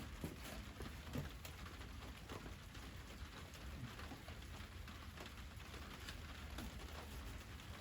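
Wood fire crackling, with small irregular snaps and pops.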